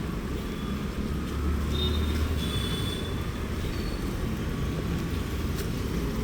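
Road traffic going by: a steady low rumble that swells a little between one and three seconds in, with a few short, high, thin tones about two seconds in.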